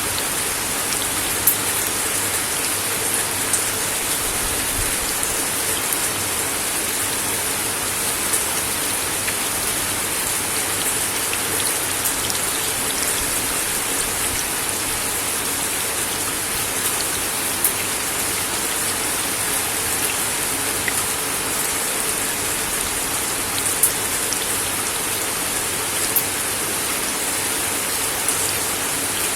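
Steady rain falling on a wooden deck, an even hiss with occasional louder single drops ticking on the boards.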